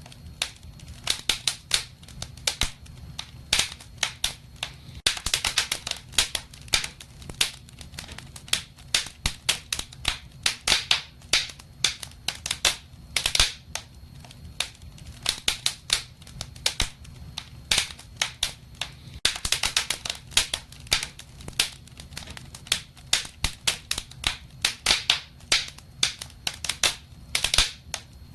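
Wood fire in a fireplace crackling: irregular sharp snaps and pops, often several a second in clusters, over a low steady rumble.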